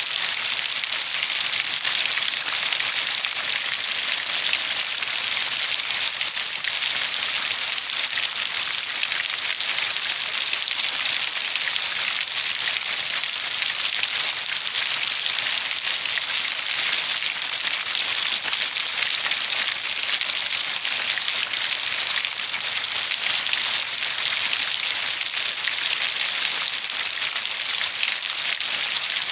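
Steady, heavy rainfall pattering on a surface, an even hiss of many fine drops that holds at the same level throughout.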